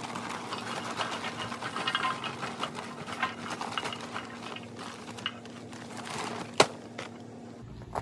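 Charcoal briquettes poured from a bag into a steel park grill, clattering and rattling steadily against the metal, with one sharp knock near the end.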